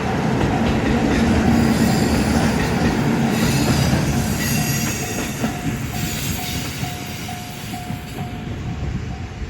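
Two-car limited express Nanki diesel train running past over the level crossing, with wheels squealing about midway, then fading as it moves off. The crossing's warning bell rings about twice a second throughout.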